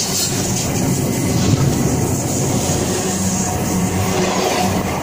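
Train cars passing at speed a few inches from the microphone: a steady, loud rush and rumble of the cars and their wheels on the rails.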